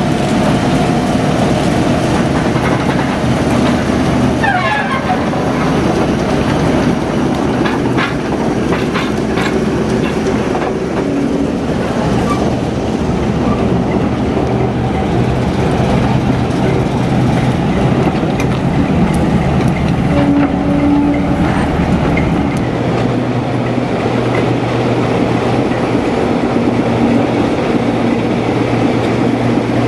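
Diesel locomotive running on the line, its engine a steady low throb, with a few clicks and knocks from the wheels and track about a third of the way in. The engine note changes about three quarters of the way through.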